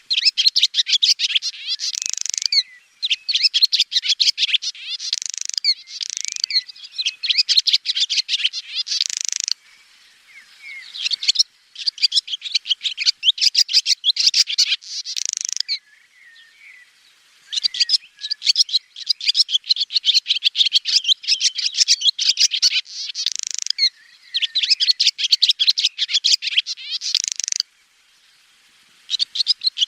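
Swallow twittering: rapid runs of high, bright chirps and trills in phrases a few seconds long, broken by a few short pauses.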